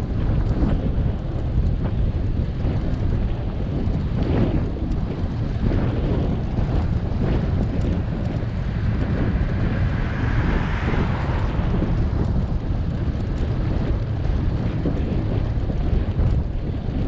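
Wind buffeting the microphone of a camera on a moving bicycle, a steady low rumble. A broader rush of noise swells and fades about halfway through.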